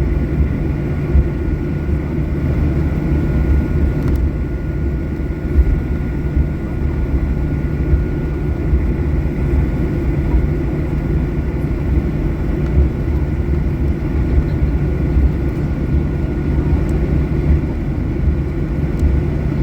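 Steady low rumble and airflow hiss inside the cabin of a Boeing 737-800 on the ground before departure, with a couple of faint steady tones above it.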